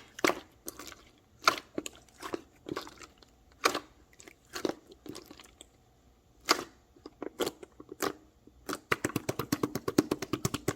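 Crunching and popping of a soft material being worked and mixed by hand, in irregular single pops. Near the end comes a fast run of crackles.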